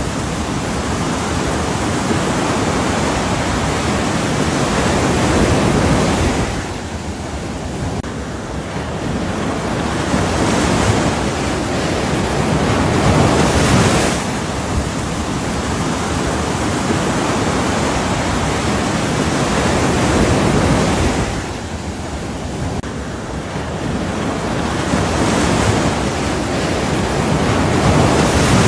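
Ocean surf washing in and out: a dense, steady rush of breaking waves that swells and falls back in slow cycles.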